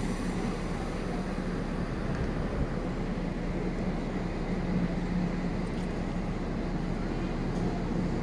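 Steady mechanical hum and low rumble of trains standing at a railway station platform, unchanging throughout.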